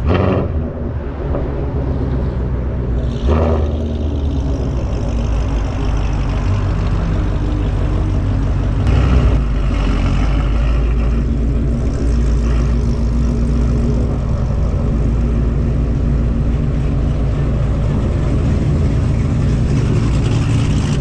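Ford Mustang's Coyote 5.0 V8 running steadily while driving, heard through a car-mounted camera. The sound gets louder and brighter briefly about 3 seconds in, and again about 9 seconds in.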